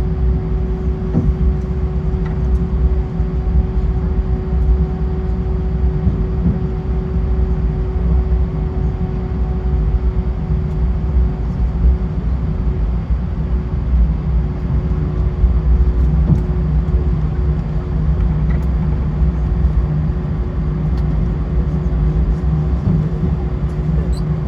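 Airbus A320 cabin noise while taxiing after landing: a steady low rumble of the idling engines and airframe, with a constant hum over it.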